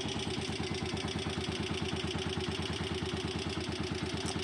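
Honda TMX125 Alpha's single-cylinder four-stroke engine idling steadily just after starting, with an even, regular beat.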